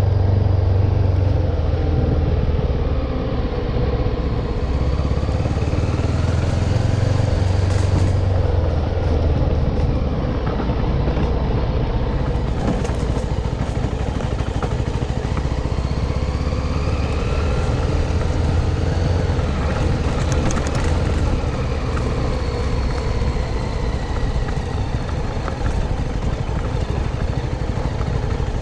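CF Moto NK250 single-cylinder engine running while riding, its pitch rising and falling several times as the revs change, over a steady low rumble.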